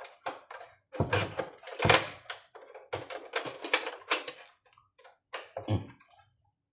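Irregular clicks, taps and a few dull thumps of the parts of an opened patient monitor being handled while its circuit board and flex cables are fitted.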